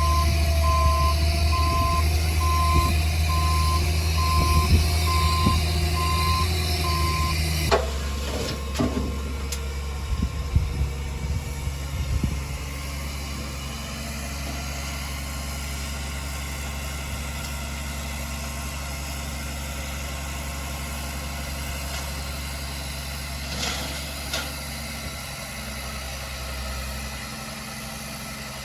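A dump truck's engine runs while its reversing alarm beeps in a steady on-off rhythm. About eight seconds in the beeping stops with a sharp knock and a few clunks, and the engine settles to a steady, quieter idle.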